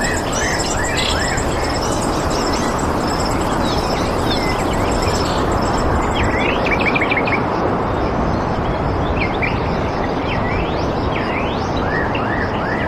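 Songbirds chirping with short sweeping calls, a quick trill about seven seconds in, over a steady rushing background noise. A high, rapidly repeated note runs through the first half and then stops.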